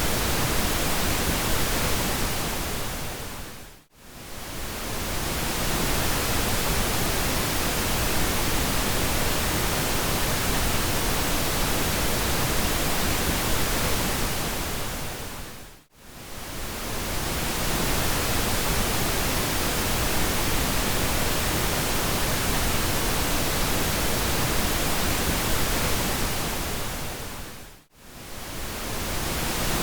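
Steady pink noise, an even hiss across the whole range, that fades briefly down to near silence and back up three times, about twelve seconds apart.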